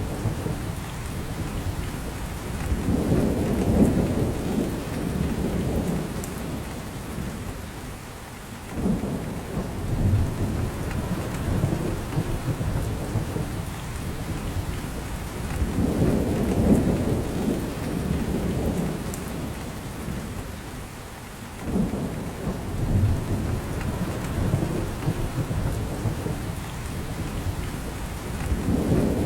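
Steady rain falling in a spruce forest, with drops falling from the branches, under repeated low rumbles that swell and fade every few seconds.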